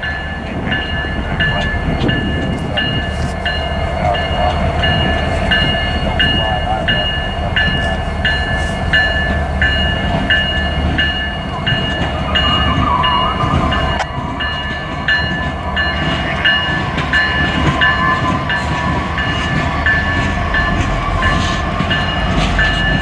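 Six BNSF diesel locomotives (EMD SD70ACe units and a GE ES44AC) leading a coal train rumble past at slow speed. A level-crossing bell rings steadily about twice a second. About halfway through, a wavering high squeal from the moving train joins in.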